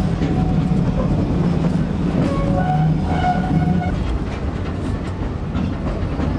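Steam excursion train rolling along the track: a steady low rumble with faint clicks of wheels on rail.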